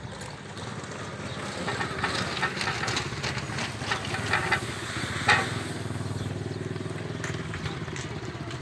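A motor vehicle's engine running steadily, with rattling and clatter over it and a louder knock about five seconds in.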